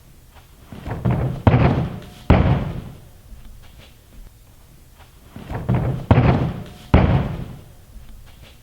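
A gymnastics tumbling pass: quickening run-up steps, then two heavy thuds of the hand and foot contacts and the landing, heard twice.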